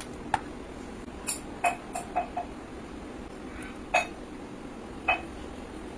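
A series of light, sharp clicks and taps of small hard objects being handled, about eight in all, irregularly spaced, with a cluster in the first two and a half seconds and single taps at about four and five seconds, over a steady low hum.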